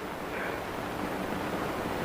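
Steady hiss and low rumble of an old optical film soundtrack.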